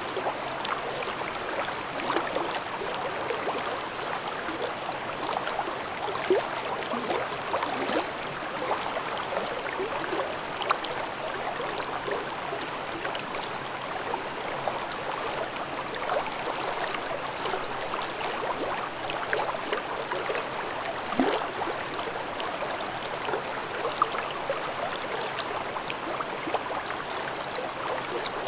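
Mountain stream babbling over rocks: a steady rush of water with many small gurgles and splashes.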